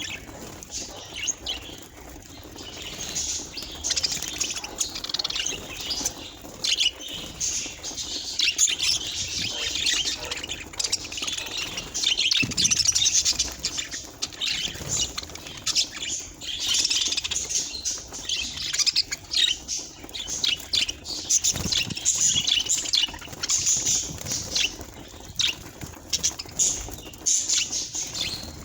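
Budgerigars chirping and chattering continuously, many short calls overlapping.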